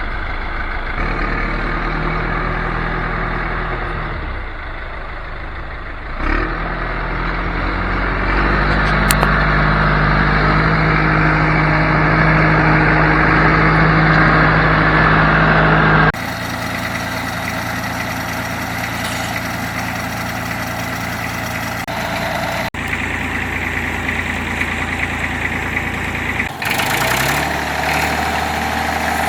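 Tractor engine running, louder about six and eight seconds in. After a cut about halfway through, a Massey Ferguson 35's three-cylinder Perkins diesel idles steadily, running after sitting outside for a year.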